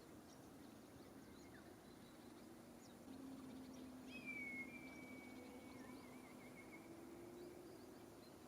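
Faint forest birdsong: scattered short high chirps, and about four seconds in a longer whistled call that dips, holds steady and ends in a warble, over a low steady hum.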